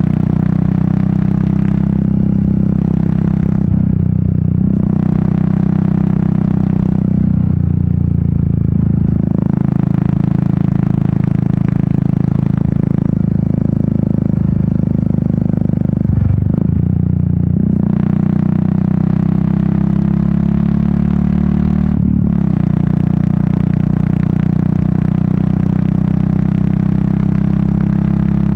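Royal Enfield Meteor 350's single-cylinder engine and exhaust running steadily while riding, with wind noise over it. The engine note breaks and shifts in pitch several times, about 2, 4, 7, 16 and 22 seconds in.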